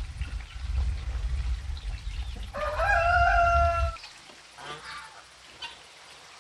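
A rooster crowing once, a long held call about two and a half seconds in, over a loud low rumble that stops suddenly about four seconds in. A few fainter short calls follow.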